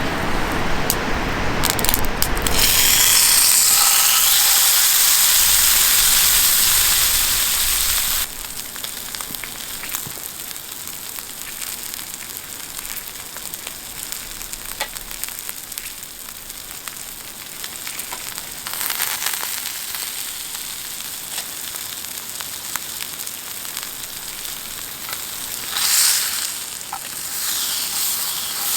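Meat sizzling in a hot pan: a loud hissing sizzle for several seconds near the start that cuts off suddenly, then a quieter steady sizzle with small crackles and a couple of brief swells.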